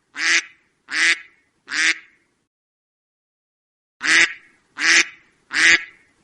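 Duck quacking: six loud quacks in two runs of three, with a pause of about two seconds between the runs.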